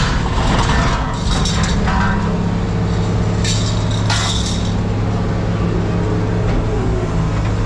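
Vehicle engine idling with a steady low hum, with a few short metallic clinks and rattles over it.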